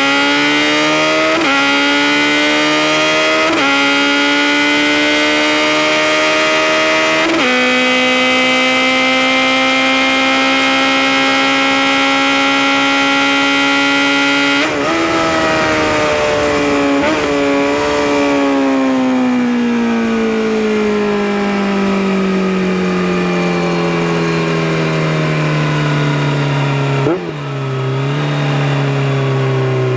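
Kawasaki Z900RS inline-four with a Holeshot Lextek header, accelerating hard through the gears: the revs climb and drop back at three upshifts in the first several seconds, then hold high and steady. About halfway the throttle closes and the engine note falls steadily as the bike slows, with a short blip near the end.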